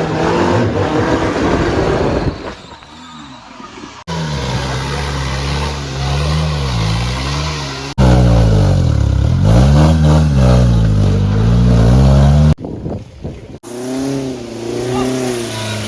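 Off-road 4x4 vehicle engines revving, their pitch swinging up and down under load, in a string of short clips that cut abruptly from one to the next, with a quieter stretch early on.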